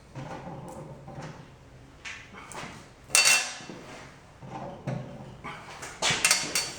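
Metal parts and tools of a tile snap cutter being handled during reassembly: a run of clinks, rattles and knocks, the loudest about three seconds in with a brief metallic ring, and a quick cluster of knocks near the end.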